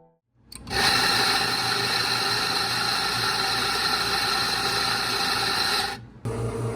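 A small machine runs steadily with a hiss and a high steady tone, starting about half a second in and cutting off abruptly near the end; a lower humming machine starts right after.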